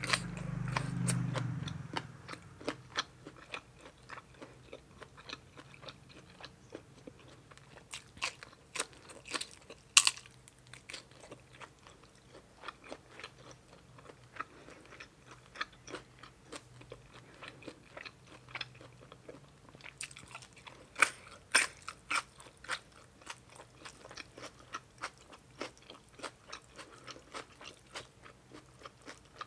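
A person chewing and biting crunchy food close to the microphone: a steady run of crisp crunches several times a second, a few sharper and louder ones along the way. A low hum sounds over the first couple of seconds.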